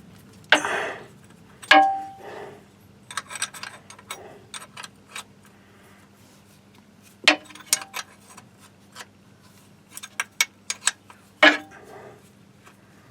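Hand tools clanking and tapping on metal at the Sprinter's manual gearbox filler plug while it is being worked loose: four sharp knocks, one ringing briefly, with lighter clicks and rattles between them.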